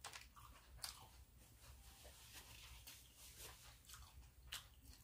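Faint chewing and crunching of crispy fried chicken, with a few soft crisp ticks, the clearest about a second in and near the end.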